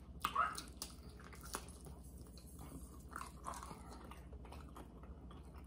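Quiet chewing and mouth sounds of people eating, with a few soft, scattered clicks.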